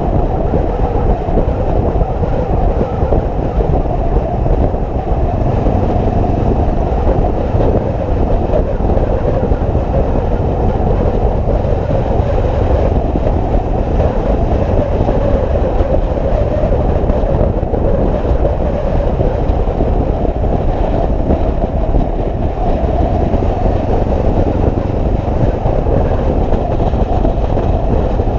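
Motorcycle running at a steady cruising speed: a continuous, even rumble of engine, tyres and wind with no changes in pace.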